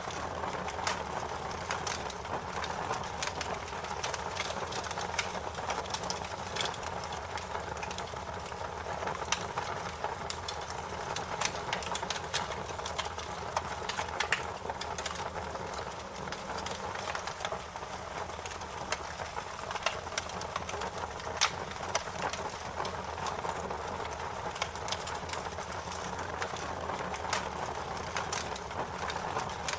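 Fire crackling: a steady hiss with frequent sharp, irregular pops and snaps.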